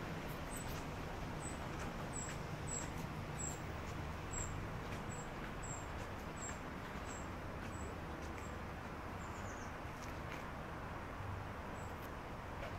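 Outdoor street background with a low steady rumble of distant traffic, and a small bird giving a high, thin chirp over and over, about once every half second, through the first two-thirds, ending with a short falling note.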